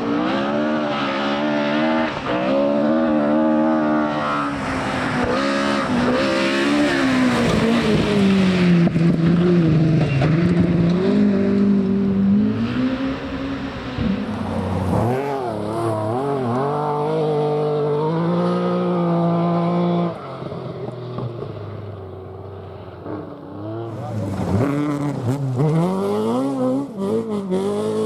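Rally car engines revving hard through a corner: the engine note drops as a car brakes and turns, then climbs in steps through the gears as it accelerates away, with another car's engine rising near the end.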